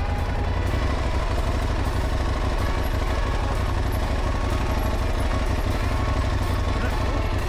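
Dual-sport motorcycle being ridden, its engine running steadily under a constant rush of wind and road noise.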